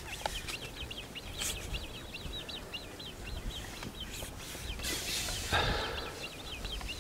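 A small songbird twittering in a fast, even run of short high chirps. Low rumble on the microphone underneath, with a brief rush of noise about five and a half seconds in.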